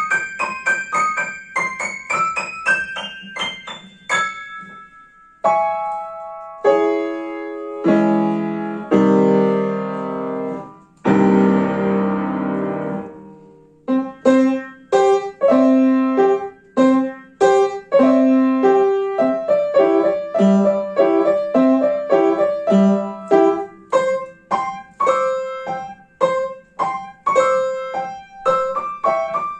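Solo piano playing a children's character piece: quick repeated high notes at first, then after a short break heavier low chords building to a long blurred low chord just past the middle. It then goes into a steady, bouncy run of short detached notes over a repeating bass.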